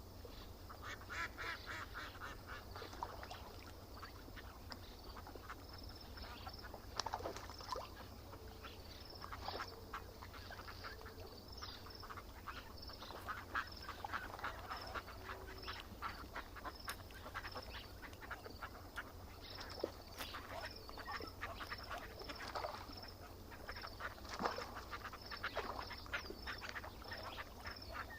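Birds calling in repeated bursts of short, rapid calls, with a short high note repeating about once a second over a steady low rumble.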